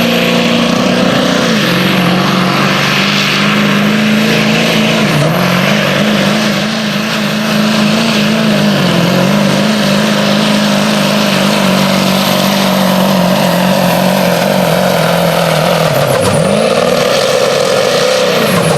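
A pulling truck's engine held at high revs under heavy load as it drags the weight sled down the track, its pitch wavering through the pull. About 16 seconds in the revs drop sharply, then climb again near the end.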